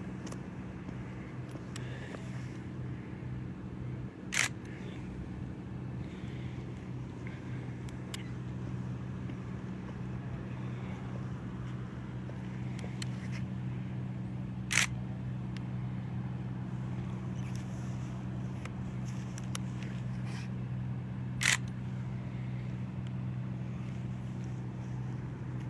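Three camera shutter clicks, spaced several seconds apart, over a steady low engine hum.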